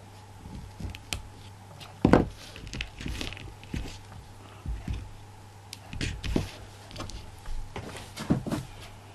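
Scattered light knocks, taps and rustles of hands handling craft materials on a work table, the sharpest knock about two seconds in, over a steady low hum.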